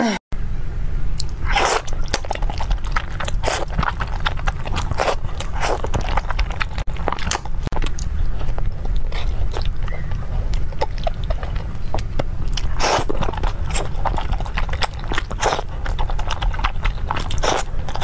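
Close-miked eating sounds: a person chewing and smacking on soft wide noodles, with many quick wet mouth clicks, over a steady low hum.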